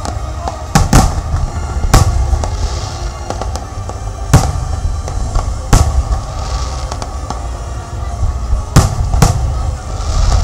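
Aerial firework shells bursting: about seven loud bangs at irregular intervals, two of them close together near the start and two near the end, each with a trailing echo, over a steady low rumble.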